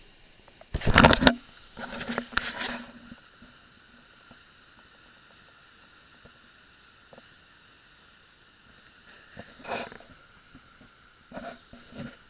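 Muffled knocks and rubbing of a loosely attached action camera against a life vest on a jet ski, loudest about a second in, with smaller bumps a couple of seconds in and again near the end, over a faint steady hiss.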